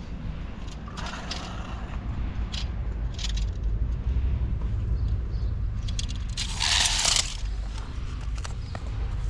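Work noise: a steady low rumble with scattered clicks and scrapes, and a loud scraping hiss lasting about a second, about six and a half seconds in.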